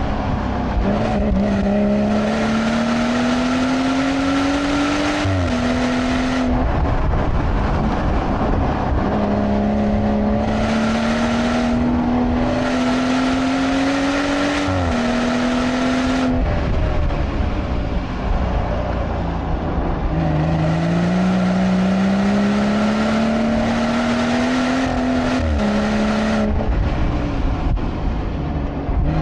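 BMW turbocharged straight-six heard from inside the cabin on a hot lap. There are three hard pulls, each rising steadily in pitch, then dropping slightly and holding briefly before the throttle comes off. Each lift leaves a quieter stretch of road and tyre noise.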